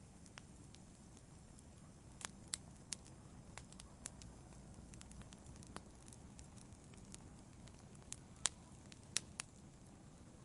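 Wood fire crackling in a fireplace: a soft low hiss of burning with irregular sharp pops and snaps, a few standing out louder in the middle and near the end.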